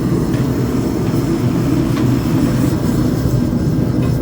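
Blacksmith's forge running with a steady low rumbling noise while steel heats in it.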